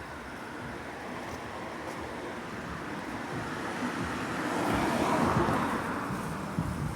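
A car driving past on the road: its engine and tyre noise grows louder, peaks about five seconds in, then fades.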